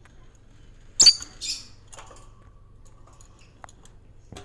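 Small pet bird giving two short, high-pitched chirps about a second in, followed by a few faint ticks.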